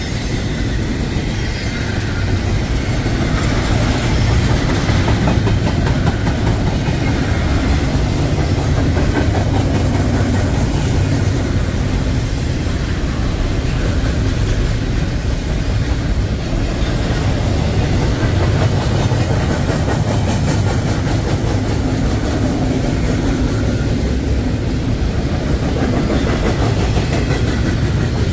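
A train rolling steadily past at track level, its cars' wheels clattering over the rails.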